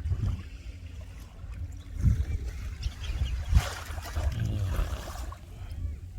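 Wind buffeting the microphone in uneven gusts over the wash of waves on the shore, with a sharper hissing surge about three and a half seconds in.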